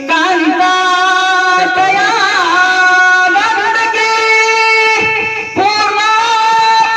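A voice singing Marathi mangalashtak wedding verses. It holds long notes and slides between pitches, with brief breaths just before the start and at about five and a half seconds.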